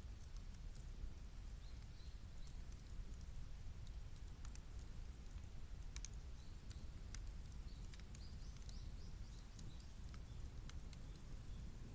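Bamboo fire in a bottomless 18-litre steel can, crackling faintly with scattered sharp pops and ticks at irregular intervals over a low rumble.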